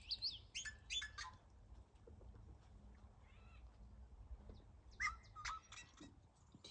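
Wild birds calling and singing: a quick run of high chirps at the start, a few falling calls about a second in, and more calls about five seconds in, over a faint low rumble.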